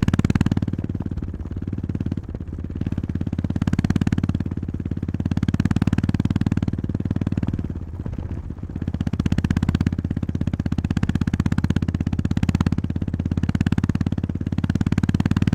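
Honda GB350S's single-cylinder engine running under way, its exhaust pulses rising and falling with the throttle and easing off briefly about two and eight seconds in.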